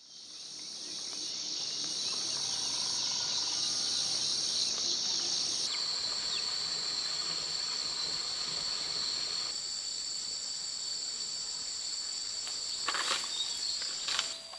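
Steady high-pitched chorus of insects, shifting abruptly in pitch twice, with a few short knocks near the end.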